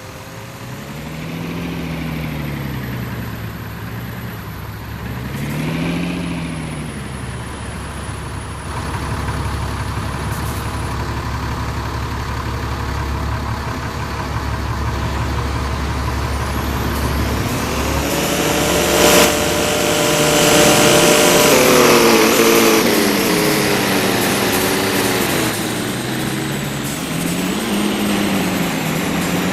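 Truck engines revving at intervals over a low running rumble. There are two quick rises and falls in pitch, then a longer, louder run of revs with a sharp crack about 19 seconds in, and more revs near the end.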